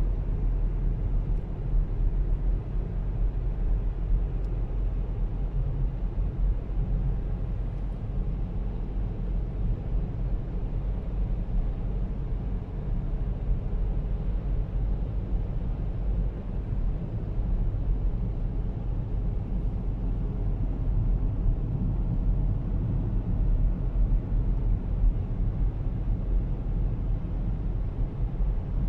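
A car being driven at a steady pace: an even, low rumble of engine and tyre noise.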